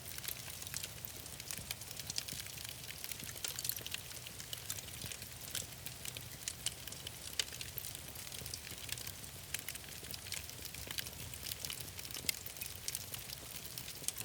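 Wood fire in a fireplace crackling: a steady hiss with many small, quick pops scattered irregularly throughout.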